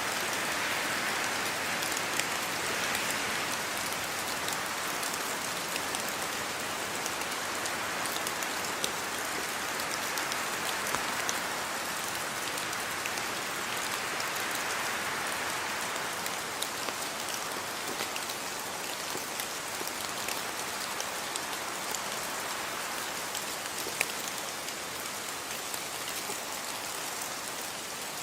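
Steady rainfall: a continuous even hiss of rain with many individual drops pattering and ticking on a surface, one sharper drop standing out about 24 seconds in.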